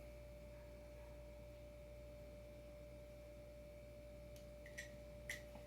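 Near silence: room tone with a faint steady tone and a low hum, and a few faint clicks near the end.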